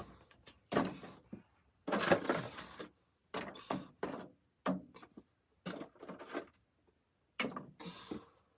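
Objects being handled in a small room: a run of irregular knocks, scrapes and rustles, the loudest cluster about two seconds in.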